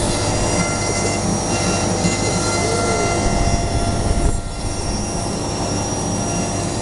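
CNC router carving Silky Oak timber: a steady spindle whine with the stepper motors' tones rising and falling as the axes move. The sound drops a little about four seconds in.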